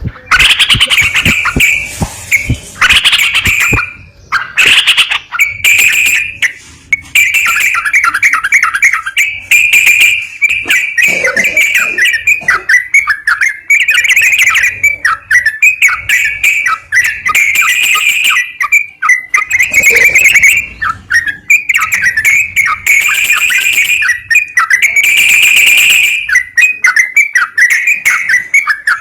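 Yellow-vented bulbul (trucukan) song: loud, rapid runs of short bright chirping notes, phrase after phrase with brief gaps.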